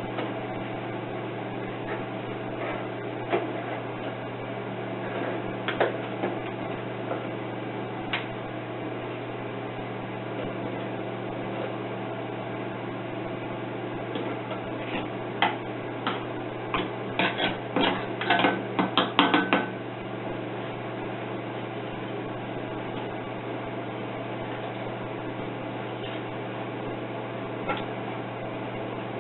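Metal clanking and knocking as a hot cast cylinder head is shaken out of its sand mould: scattered knocks, then a quick run of loud clanks from about 15 to 19 seconds in, over a steady low hum.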